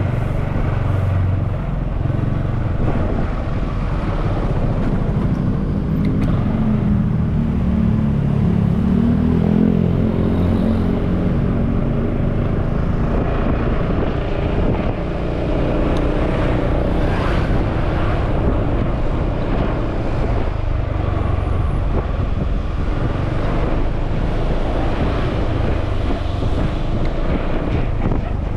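Small motorbike engine running while riding, its pitch rising and falling with the throttle. Wind rumbles on the microphone throughout.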